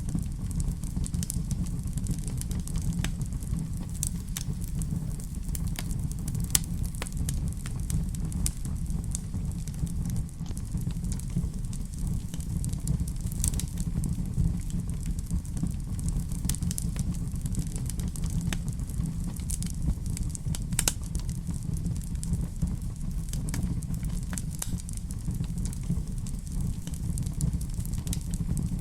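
Wood fire burning in a fireplace: a steady low rumble with irregular crackles and sharp pops scattered through it.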